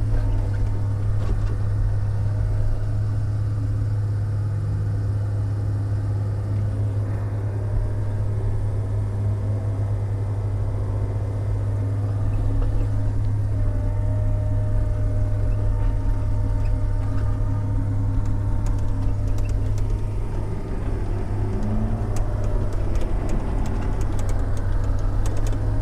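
Heavy diesel engine of a log loader running steadily, heard from inside the operator's cab as a deep, even drone.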